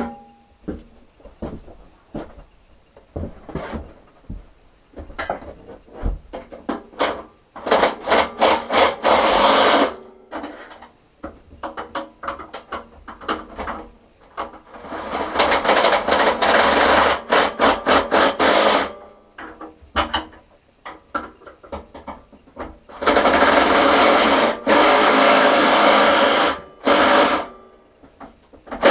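Cordless power drill running in three long bursts of a few seconds each, with shorter spurts and handling clatter in between, as if driving fasteners.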